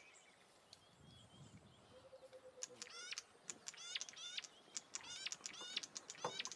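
Bird calling over and over: quick series of short, high chirps that step downward in pitch, coming faster and more often from about halfway through.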